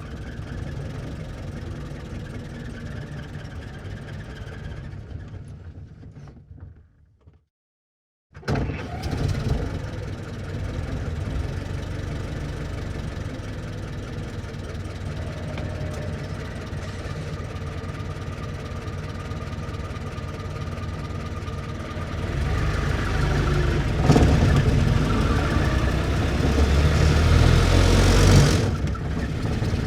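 1924 Ford Model T stake bed pickup's four-cylinder engine running, fading out and stopping about seven seconds in. After about a second of silence another take begins with the engine already running; it grows louder about two-thirds of the way through and drops back just before the end.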